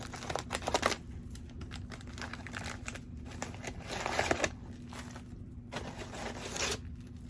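Packaging crinkling and rustling in several bursts as a mailed package is opened by hand.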